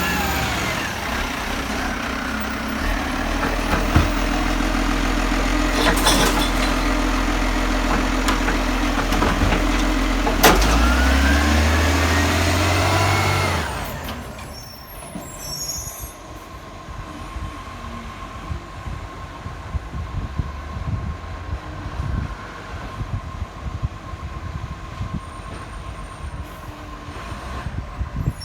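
Garbage truck working at close range: its engine runs and revs, with rising and falling whines and a few sharp bangs. The loud noise stops abruptly about halfway through, leaving quieter street sound.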